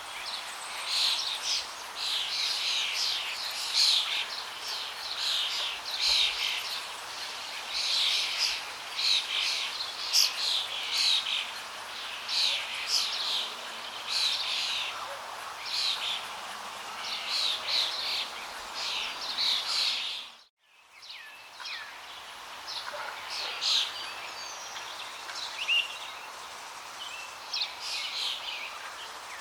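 Many birds chirping and calling over a steady rush of flowing water. The sound cuts out for a moment about twenty seconds in, and after that the bird calls are sparser.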